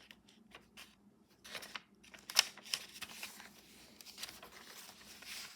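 Paper rustling and light taps from journal pages and cards being handled and turned, a sharper rustle about two and a half seconds in.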